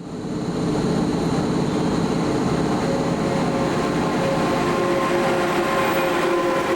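Train moving along a station track: a steady rumble with a few humming tones over it that shift in pitch partway through.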